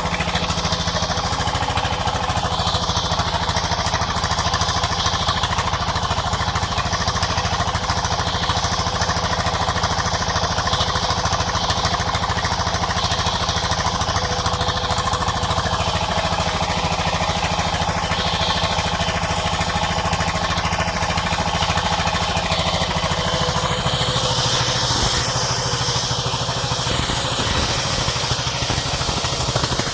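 Village sawmill machinery running steadily with a continuous engine-like drone. About three-quarters of the way through, the sound turns brighter and noisier.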